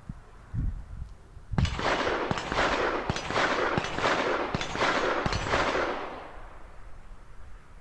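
A rapid string of distant gunshots, about two a second for some four seconds, each trailing off in a long echo.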